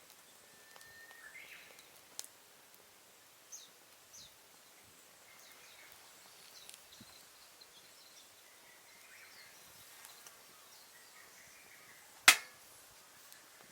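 Small twig-and-leaf fire burning in a compact wood stove, giving scattered faint crackles and one sharp, loud pop near the end. Birds chirp faintly in the background.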